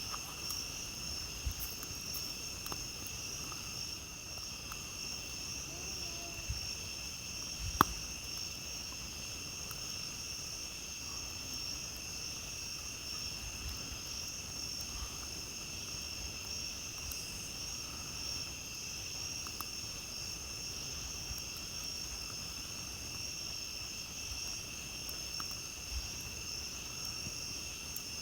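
A steady chorus of night insects trilling without pause, with a campfire crackling in short scattered clicks. One sharp, loud pop comes about eight seconds in.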